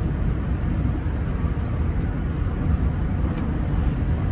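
Rolls-Royce Silver Spirit III on the move, heard from inside the cabin: a steady low rumble of road and engine noise.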